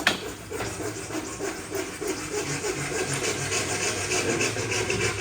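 Hole saw cutting into wood with a steady, rapidly repeating rasping.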